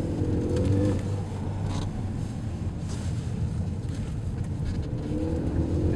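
Ford Focus 1.0-litre EcoBoost three-cylinder turbo petrol engine heard from inside the cabin under acceleration. The pitch climbs, falls away about a second in, holds lower, then climbs again near the end, over steady road and tyre noise.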